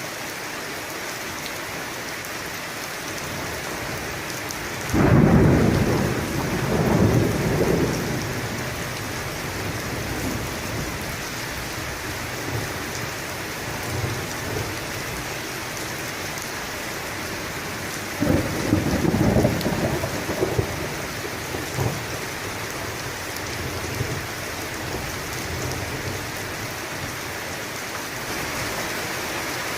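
Steady heavy rain with two rolls of thunder, the first cracking in about five seconds in and rumbling on for about three seconds, the second about eighteen seconds in, each trailing off in lighter rumbles.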